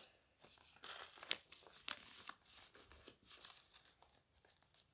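Faint crinkling and crackling of origami paper being folded and creased by hand, with a few sharper ticks of the paper about a second in and again near two seconds.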